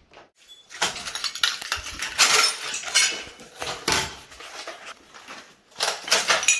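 Footsteps crunching over scattered debris, with irregular clattering and clinks as hard fragments are trodden on and knocked about.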